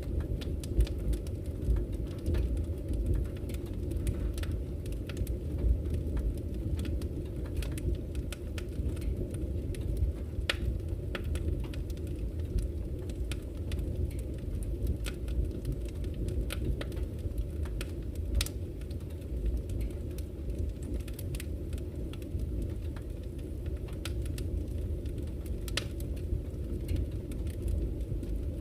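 Campfire crackling with frequent small, irregular pops, over the steady low rush of a flowing river.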